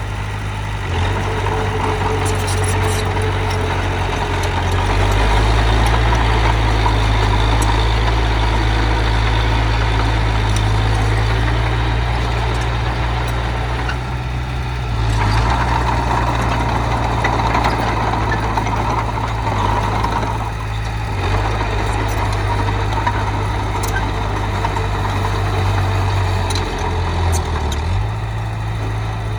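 Heavy diesel earth-moving machine engine running under changing load. Its low drone grows louder about five seconds in and dips briefly a few times, with occasional light clanks.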